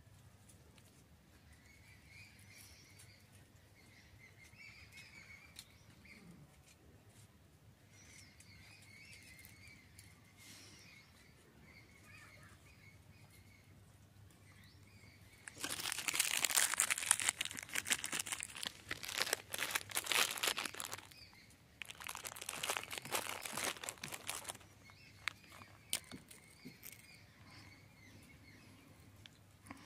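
Faint bird chirps, interrupted about halfway through by two stretches of loud crinkling plastic food wrapper, the first about five seconds long and the second about two.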